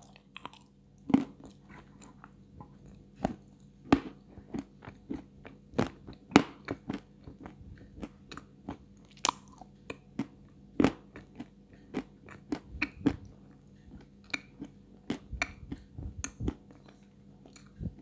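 Close-miked chewing of dry Astana 2 edible white clay: irregular sharp crunches, one or two a second, as the hard chunk breaks between the teeth.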